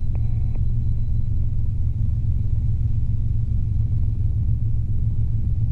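Robinson R22 helicopter in cruise flight heard from inside the cabin: a steady, loud low drone from its four-cylinder piston engine and two-blade main rotor. A brief higher sound cuts in just after the start.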